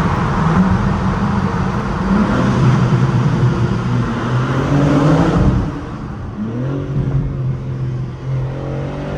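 2025 BMW M4 Competition's twin-turbo inline-six under hard throttle, its pitch climbing. About five and a half seconds in it drops noticeably quieter as the throttle eases, then pulls again with rising pitch near the end.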